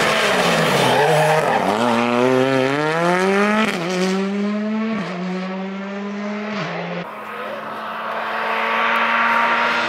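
Rally car engine dropping in pitch for a corner, then accelerating hard with the revs climbing and falling back at three quick upshifts. After the last shift the note holds steady.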